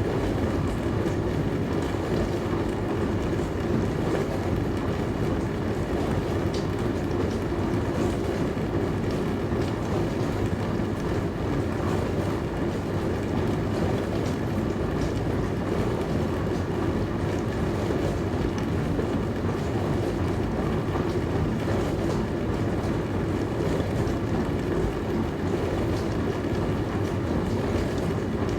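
Dishwasher running mid-cycle: a steady rush and churn of sprayed water inside the tub, with a few faint scattered ticks.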